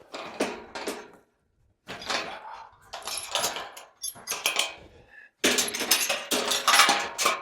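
Metal clattering and banging in four bursts with short gaps, the last burst the loudest.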